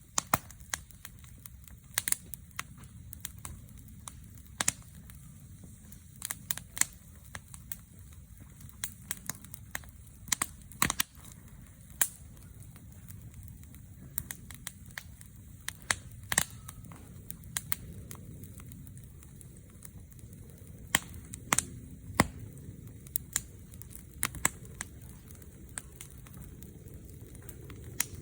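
Campfire crackling: burning wood gives off irregular sharp pops and snaps over a low, steady background.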